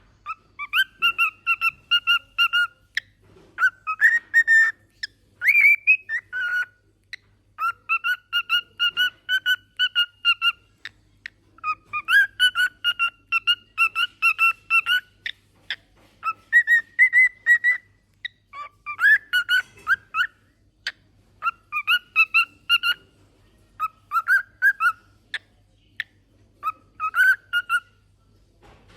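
Cockatiel singing: phrases of rapid whistled notes, each lasting one to three seconds with short pauses between them.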